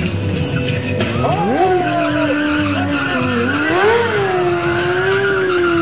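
Motorcycle engine revving hard: the pitch jumps up about a second and a half in and is held high, swelling and dipping with the throttle.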